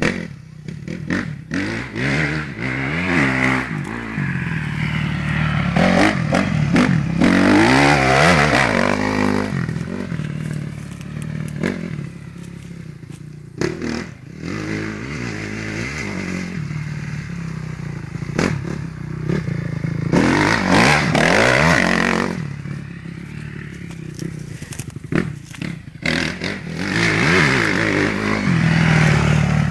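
Motocross motorcycle engine revving up and easing off again and again as it is ridden through tight corners, its pitch rising and falling with each run. It grows louder in several passes, the loudest about a quarter of the way in and again around two-thirds through.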